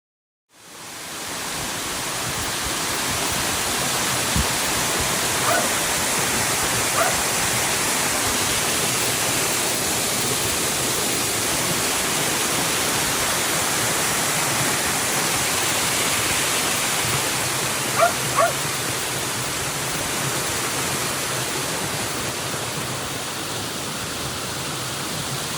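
Steady rushing of a small waterfall, fading in at the start. A dog gives a few short yips over it, a pair of them about two-thirds of the way through.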